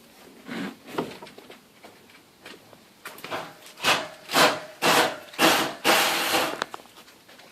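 Repeated rough scraping strokes, a couple of soft ones about half a second and a second in, then about five loud strokes roughly two a second, the last drawn out longer, with a faint squeal in them.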